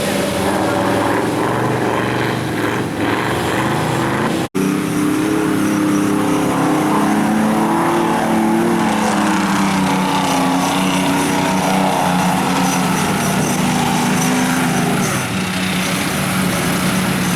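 Engine of a mud-bogging jeep or truck running hard under load, its pitch slowly rising and falling. The sound drops out for an instant about four and a half seconds in.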